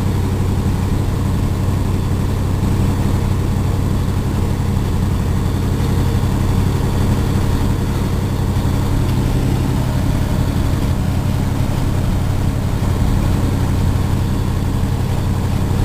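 Cement tanker truck's diesel engine running steadily while driving, heard from inside the cab as an even, low drone.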